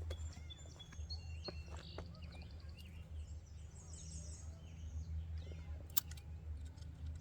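Several birds chirping and trilling in quick, high calls over a steady low hum, with one sharp click about six seconds in.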